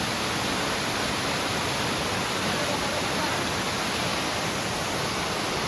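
Waterfall's falling water: a steady, unbroken rushing noise.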